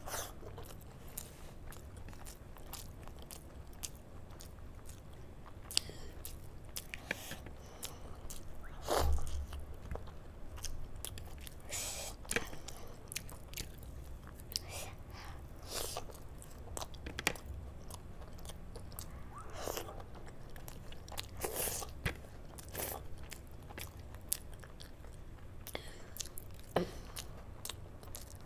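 Close-miked eating: wet chewing and mouth clicks of curried rice eaten by hand, with scattered sharper crunches and smacks, louder ones about a third of the way in and near the end.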